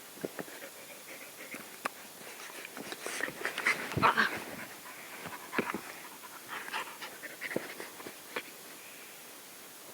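A dog breathing noisily in short bursts, panting and snuffling, with a cluster of louder breaths around four seconds in and a few more spaced out after.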